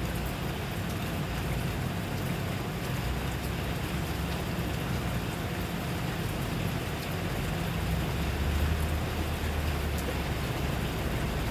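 Steady rain falling: a constant hiss with a strong low rumble beneath it and faint scattered drop ticks.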